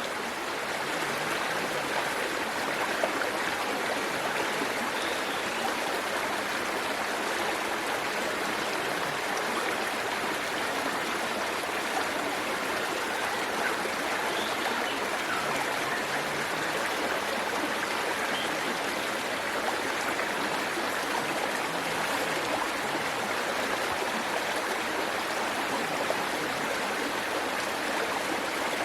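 Waterfall and stream water rushing steadily, an even splashing hiss with no breaks.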